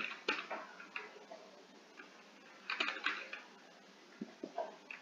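Computer keyboard keys being typed in a few short bursts of clicks while a booking form is filled in.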